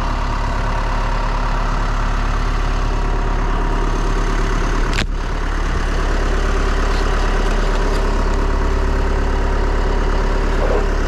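Vehicle engine running steadily at a constant speed, with a single sharp click about five seconds in.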